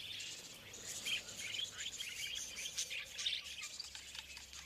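Budgerigars chattering: a continuous stream of short, quick chirps and warbles.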